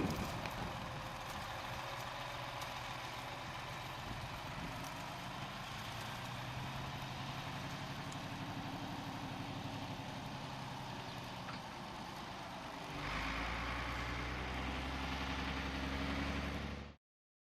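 Scania 4x4 expedition truck's diesel engine running steadily, growing louder with a deeper hum about three-quarters of the way through, then cutting off suddenly near the end.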